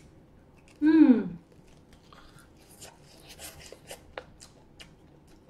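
A woman's short vocal sound with a falling pitch about a second in, then faint crackles and clicks of chewing and tearing crispy fried chicken.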